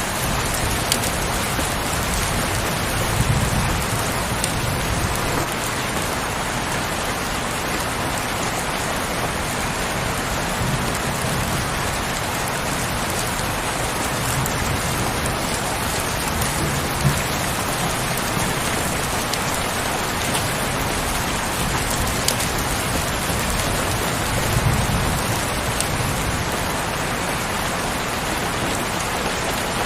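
Heavy rain falling steadily as an even hiss, with scattered sharper drop ticks. A few soft low swells come and go, about 3 seconds in, around the middle and near the end.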